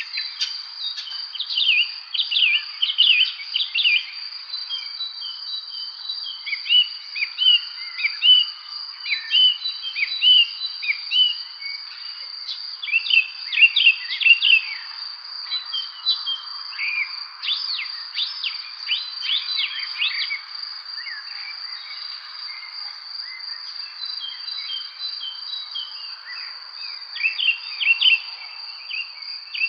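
Songbirds chirping and singing in short bursts over a steady, unbroken high insect trill. The birdsong thins out for a few seconds about two-thirds of the way through.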